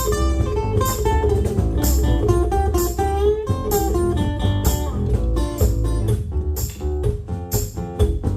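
Live band playing an instrumental break: a guitar plays a moving lead line over bass, with a steady beat from the drums.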